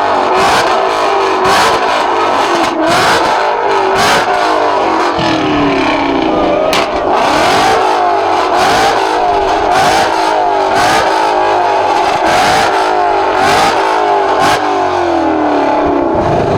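Car engine revving hard and repeatedly, its pitch climbing and dropping over and over, with frequent sharp cracks.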